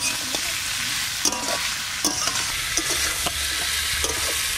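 Potatoes, yardlong beans and salted hilsa sizzling in hot oil in an iron kadai. A metal spatula stirs them, scraping and knocking against the pan about once a second over the steady frying hiss.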